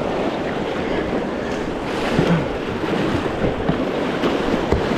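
Rushing creek whitewater splashing around a kayak, a steady noisy rush with small irregular splashes and knocks, with wind buffeting the microphone.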